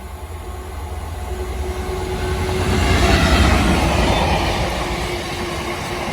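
Class 66 diesel-electric freight locomotive passing, its two-stroke V12 engine growing louder to a peak about three seconds in, followed by the rumble and clatter of its freight wagons on the rails.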